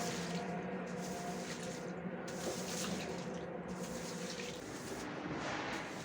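Water running steadily, as from an open tap.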